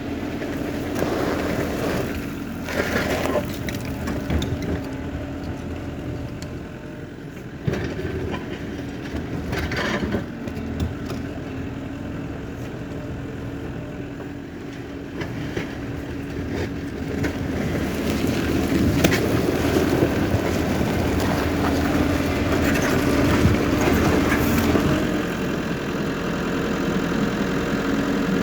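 Bulldozer running, its diesel engine droning steadily, with scattered clanks and knocks. It grows louder about two-thirds of the way through.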